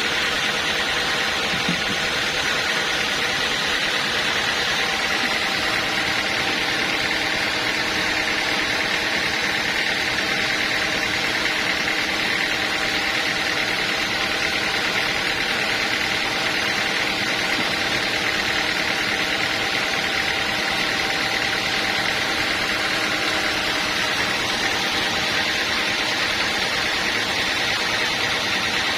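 Sawmill machinery running steadily, a constant mechanical noise with faint steady whining tones and no change in load.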